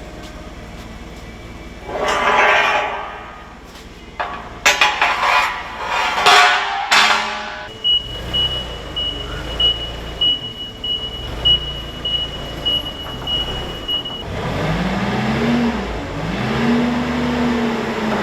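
Metal clanks and knocks. Then a vehicle's backup alarm beeps steadily, about ten beeps over six seconds, over a low engine rumble. Near the end the engine revs up and down twice.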